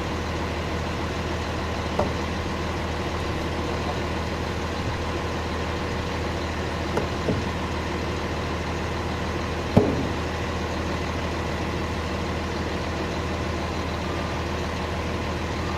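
An engine idling steadily, with a few sharp knocks over it, the loudest about ten seconds in.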